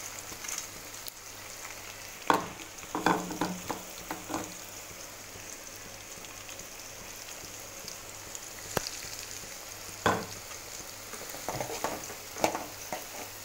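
Coarsely ground peanuts sizzling in hot oil in a metal kadhai, a steady hiss. A perforated metal spatula scrapes and clinks against the pan several times as the mixture is stirred, with a cluster of knocks near the end.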